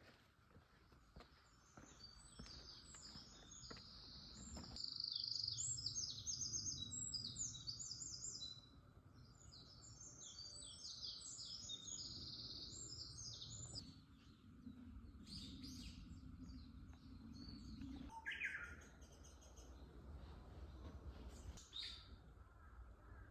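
Forest songbirds singing in quick, dense trills and chirps, busiest in the first half and then coming in scattered calls, with one falling call near the end. Faint footsteps crunch on a dirt path underneath.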